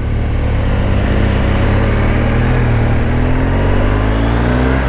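BMW R1200GS flat-twin engine pulling the bike along, its pitch rising gradually as it accelerates, over steady road and wind noise.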